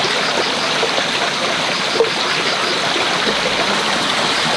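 Steady rushing of running water at an even level, with no breaks.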